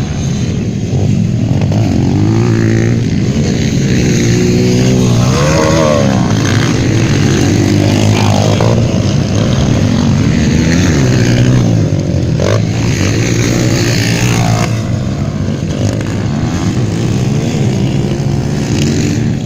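Several 150cc motocross bikes racing, their engines revving up and dropping back over and over as they accelerate and shift, with overlapping pitches from more than one bike.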